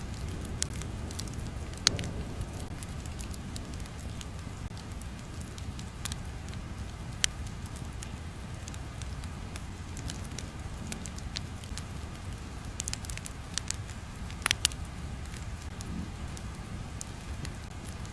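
Steady low rumble with irregular sharp crackles and pops scattered through it.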